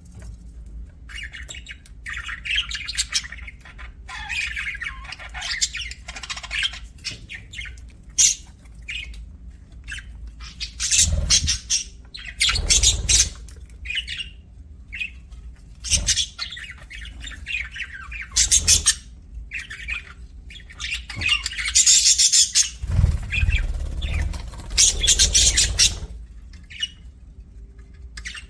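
Budgerigars chirping and squawking in quick, irregular bursts of high calls, with a steady low hum underneath.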